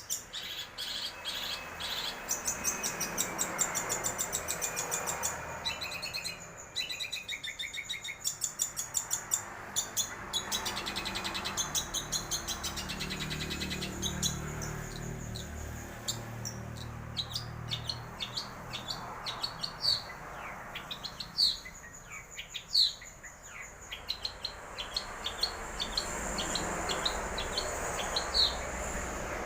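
Long-tailed shrike (cendet) singing a varied song of fast repeated trills and sharp chirps, changing phrase every few seconds.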